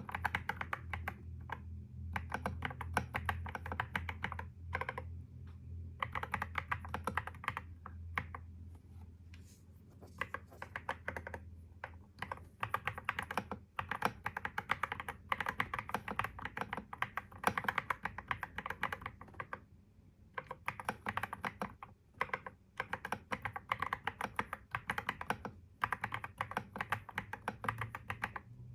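Computer keyboard typing in quick runs of keystrokes broken by short pauses. A steady low hum underlies the first half and fades out about halfway through.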